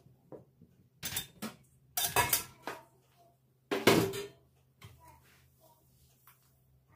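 Dishes and cutlery clattering: short clusters of clinks and knocks about a second in and again at two seconds, the loudest near four seconds, then a few faint taps.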